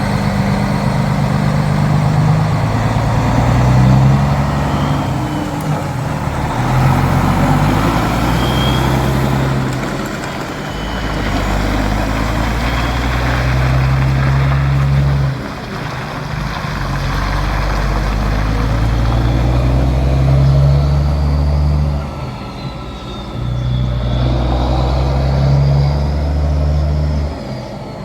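Loaded Peterbilt semi truck's diesel engine pulling away under load, its pitch climbing through each gear and dropping at several upshifts.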